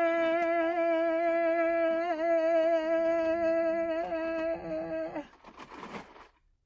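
A person holding one long sung note, steady in pitch, that breaks off about five seconds in, followed by a short breathy noise.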